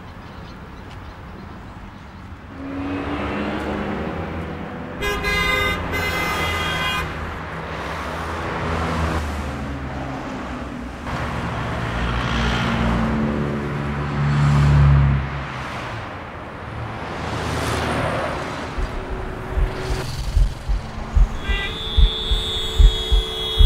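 Road traffic: cars passing one after another, each swelling and fading, with a car horn sounding for about two seconds around five seconds in. Near the end regular low thumps and another steady horn-like tone begin.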